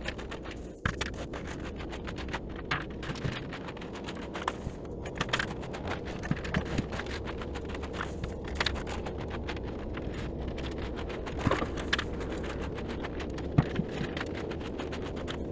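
Sawdust being scraped and dug out of a sawmill pit into a bucket: many short, irregular scrapes and clicks over a steady low hum.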